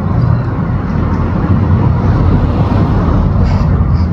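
Loud, steady low rumble, with a few faint high parakeet calls near the end.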